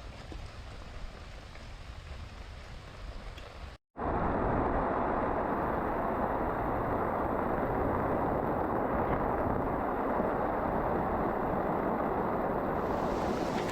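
Steady noise of heavy rain. It jumps much louder and denser after a break about four seconds in.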